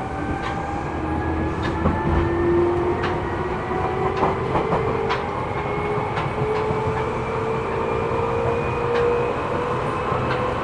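Inside a Seibu New 2000 series electric train car under way: the traction motor whine rises slowly in pitch as the train gathers speed, over a steady rolling rumble. Scattered sharp clicks come from the wheels crossing rail joints.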